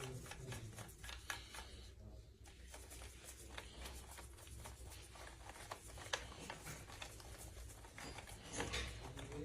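Scattered light clicks and taps of small objects being handled, over a faint low hum.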